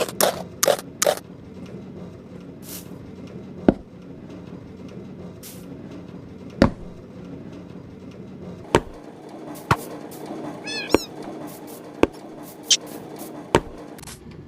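Birds in a bird house: scattered sharp clicks at irregular intervals over a faint steady hum, with a short series of quick chirps about eleven seconds in.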